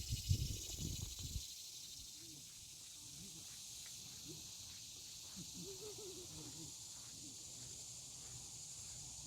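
Steady, high-pitched hiss of an insect chorus in the trees. Wind buffets the microphone in the first second and a half.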